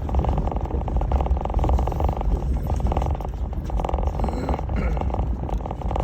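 1996 Jeep Grand Cherokee ZJ's 5.2-litre V8 running as the Jeep drives along a dirt trail: a steady low rumble mixed with road noise.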